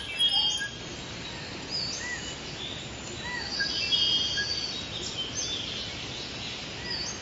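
Small birds chirping and whistling, many short calls and brief trills scattered throughout, over a steady background hiss of open countryside.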